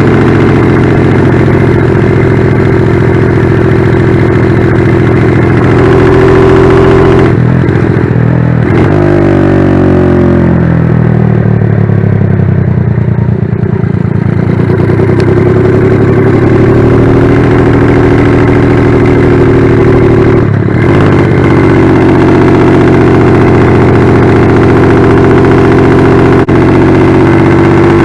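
Single-cylinder four-stroke engine of a Honda Magna motorcycle bored out to 88cc, running loud through its variable-volume muffler. The revs fall away about eight seconds in, then climb again and hold steady.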